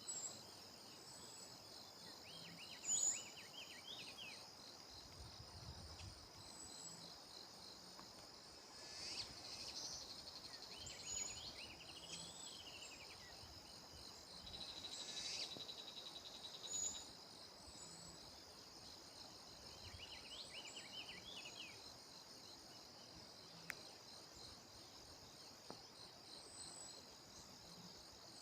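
Steady high-pitched drone of crickets or similar insects, with birds calling over it: short high chirps scattered throughout and three separate warbling, trilling song phrases.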